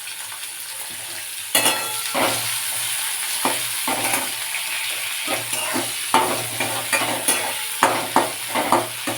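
Sliced onions frying in hot mustard oil in a kadai, sizzling, being stirred with a spatula. The sizzle grows louder about a second and a half in, then comes a run of short scraping strokes against the pan, quicker near the end.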